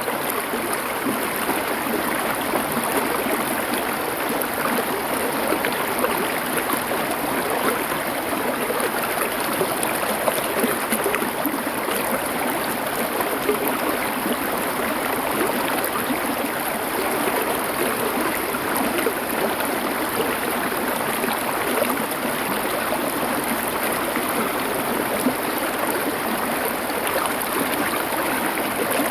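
Small river or stream flowing over stones: a steady rush with fine splashing and gurgling throughout.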